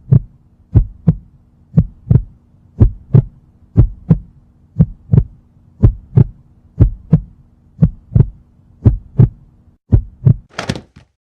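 Heartbeat sound effect: paired low thumps in a steady lub-dub rhythm, about one beat a second, over a faint low hum. It stops near the end, followed by a short burst of hissing noise.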